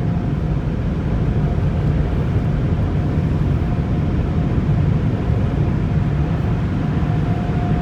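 Automatic car wash machinery heard from inside the car: a steady low rumble with a faint steady whine above it.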